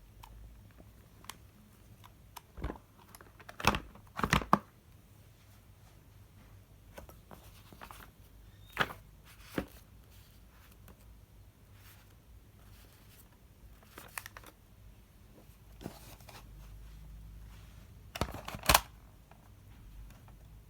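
Packaging and parts handled by hand during an unboxing: scattered rustles, crinkles and small knocks, loudest about four seconds in and again near the end.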